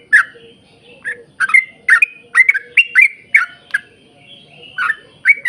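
Yellow-vented bulbul (trucuk) calling in a fast run of short, sharp chirps: a single note, a pause, a rapid burst of about ten notes, then more notes starting again near the end.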